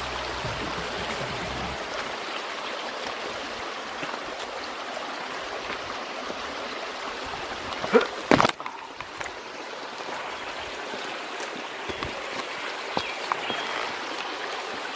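Steady rush of running water, like a flowing stream, with one brief sharp knock about eight seconds in.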